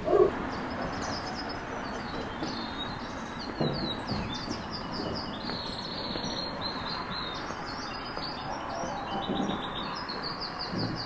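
Small birds chirping, a busy run of short, high, quickly falling notes over steady background noise; a dog barks once right at the start.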